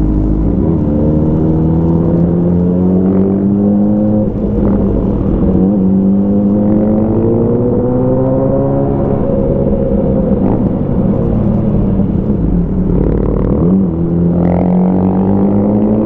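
Motorcycle engine running through an Avionic aftermarket exhaust while riding, its pitch climbing and falling back several times, with short drops about four and fourteen seconds in.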